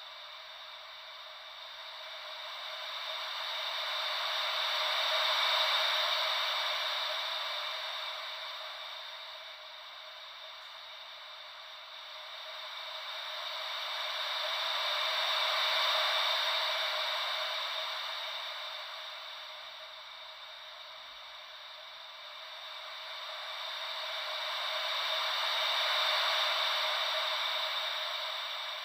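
Gentle ocean-wave white noise: a steady hiss with no deep rumble that swells and fades three times, about every ten seconds, like waves rolling in.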